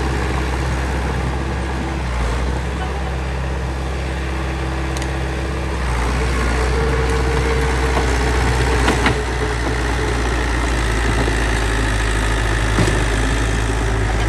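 Bulldozer's diesel engine running steadily, growing louder with a shift in its note about six seconds in. Two short sharp knocks stand out over it, one past the middle and one near the end.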